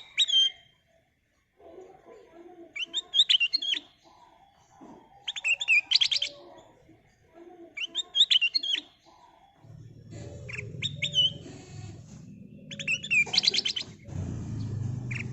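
Ruby-throated bulbul (kutilang emas) singing: short, bright phrases of quick whistled notes ending in a fast trill, repeated about every two and a half seconds. A low rumble runs underneath from about ten seconds in.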